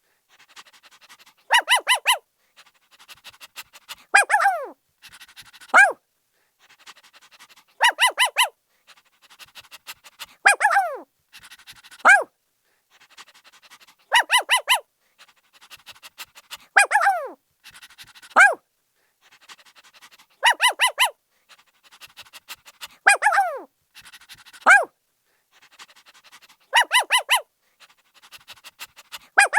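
A puppy barking: clusters of short, high-pitched barks and yelps, some dropping sharply in pitch, with fainter sounds between. The same group of barks repeats about every six seconds.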